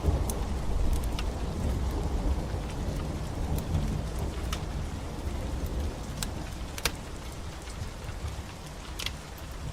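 Steady rain mixed with a wood fire crackling: sharp, irregular pops and snaps, the loudest about seven and nine seconds in. Under it sits a deep rumble that slowly fades.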